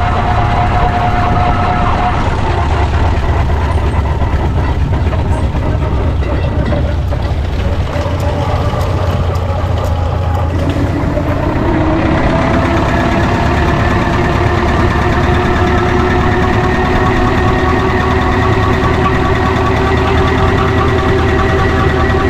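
Scale Foden C-Type steam engine with two high-pressure cylinders, driving along with a steady low mechanical rumble; about ten seconds in, a steady humming tone joins.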